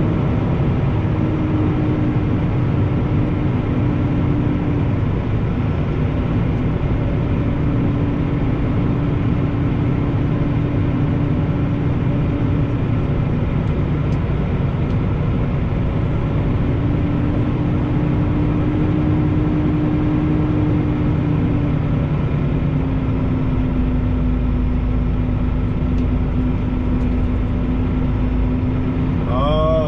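International LoneStar semi truck's diesel engine running steadily at low speed, heard from inside the cab, with a faint held whine that dips slightly in pitch about three quarters of the way through.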